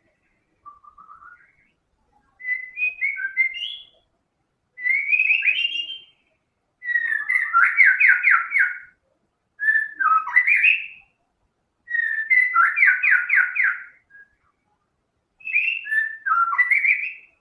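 White-rumped shama singing in full voice: a series of whistled phrases with short pauses between them, starting with a faint phrase and then louder ones. Two of the phrases carry a fast run of repeated notes.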